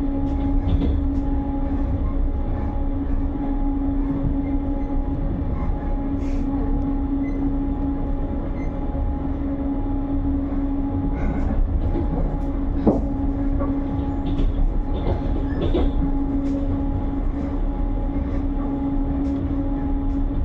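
Passenger train running along the track, heard from inside the carriage: a steady low rumble with a constant hum, and a few short clicks about two-thirds of the way through.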